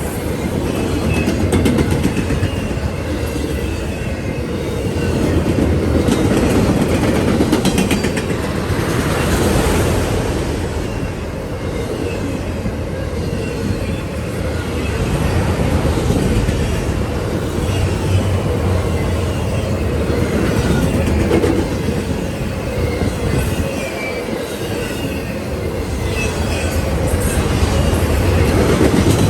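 A train's cars rolling past, a steady loud rumble of wheels on rail that swells and eases every few seconds, with clickety-clack over the rail joints and faint wheel squeal.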